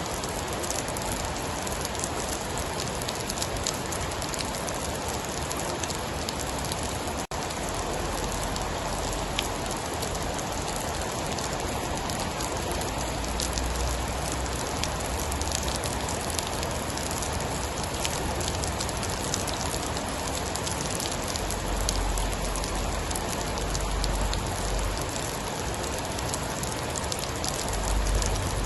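Steady heavy rain with scattered sharp drop ticks and a deep low rumble that swells now and then. The sound cuts out for an instant about seven seconds in.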